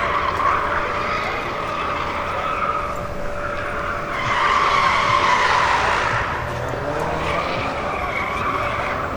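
Steady, fairly loud din of a busy exhibition hall, with a thin constant hum and a louder swell about four seconds in.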